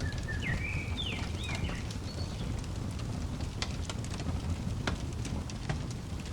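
Crackling fire, with scattered sharp pops over a steady low rumble. A bird sings a short run of gliding chirps in the first two seconds or so.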